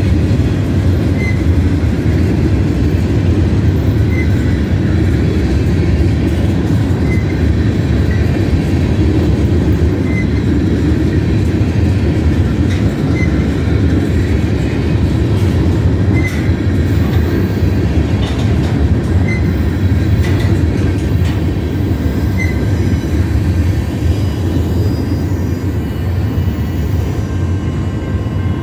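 Freight train cars rolling past close by: a loud, steady rumble of steel wheels on the rails that eases slightly near the end as the last covered hopper goes by.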